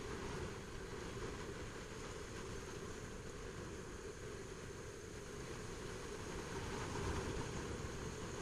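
Steady wind rush and engine running of a Honda CBR600RR sport bike being ridden, swelling slightly about seven seconds in.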